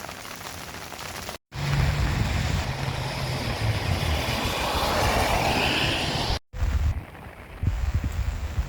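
Heavy rain falling with wind rumbling on the microphone, in three pieces broken by two abrupt cuts; the hiss swells in the middle piece.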